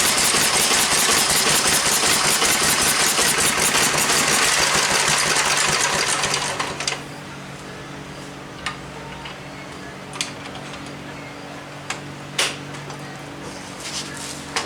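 Briggs & Stratton model FI single-cylinder engine running fast, then dying out about six and a half seconds in. Afterwards a low steady hum and a few sharp metallic clicks and knocks.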